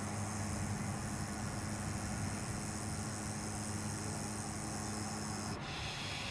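Steady hiss over a low, even hum, with no clear events; about half a second before the end the hiss drops in pitch.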